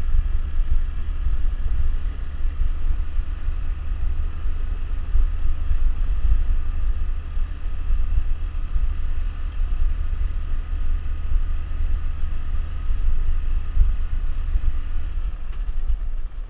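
Suzuki GZ150's single-cylinder four-stroke engine running at a steady low cruising speed, heard from the rider's helmet with wind noise on the microphone.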